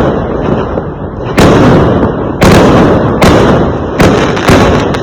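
Fireworks bursting: five loud bangs, the first about a second and a half in and the rest coming quicker, under a second apart, each trailing off in a rumbling decay over continuous crackle and rumble.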